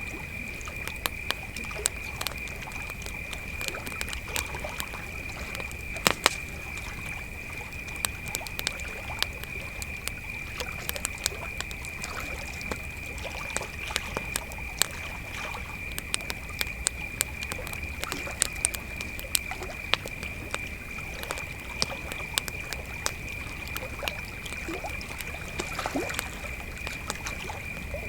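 Crickets chirring in one steady high-pitched drone, with a wood campfire crackling and popping irregularly on top; a couple of louder pops come about six seconds in.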